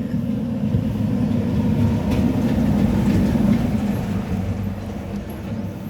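Steady low mechanical rumble of a running engine, with a droning hum.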